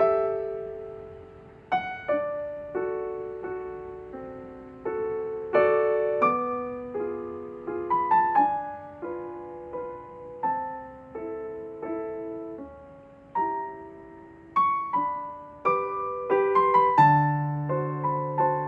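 Background piano music: slow, gentle chords and single struck notes that ring and fade.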